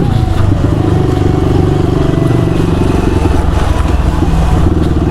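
Motorcycle engine running steadily as the bike is ridden, a fast even engine note throughout.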